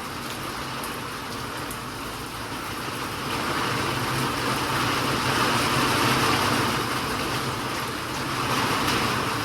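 Rain hiss over a steady low engine hum. The hiss swells for a few seconds about halfway through and again near the end.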